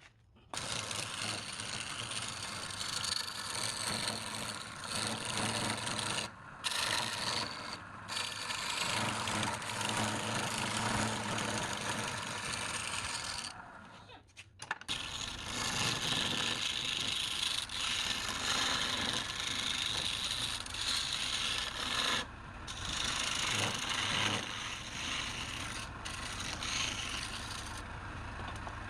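Wood being worked on a turning lathe: a continuous rasping scrape of tool or abrasive against the spinning wood. It stops briefly several times, the longest break about halfway through.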